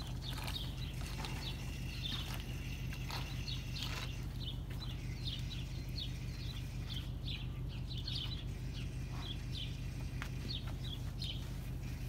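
Small birds chirping, short high notes a few times a second, over a steady low hum.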